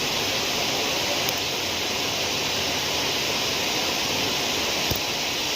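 Steady rush of water in a heavy monsoon downpour: an even hiss with no break, with a faint tap or two.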